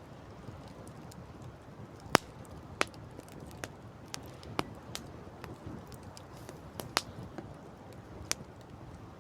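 Campfire crackling: irregular sharp pops and snaps of burning wood over a steady rush of background noise, the loudest pop about two seconds in.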